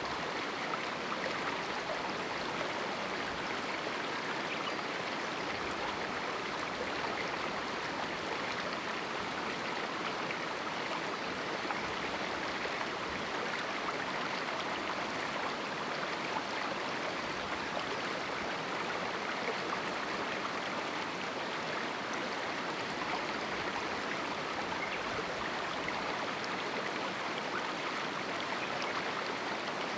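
A small canyon river flowing over rocks: steady rushing water with small splashes and gurgles, even throughout.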